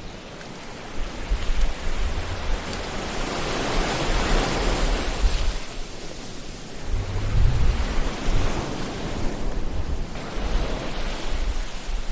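Ocean waves breaking and washing ashore, a broad hiss that swells to a peak about four seconds in, eases off, and surges again with a low rumble near the middle.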